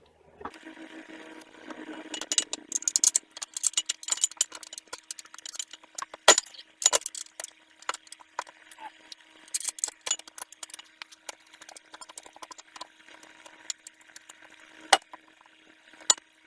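Torque wrench ratcheting on 19 mm brake caliper bracket bolts as they are tightened to 63 lb-ft: runs of quick metallic clicks with a few sharper single clicks.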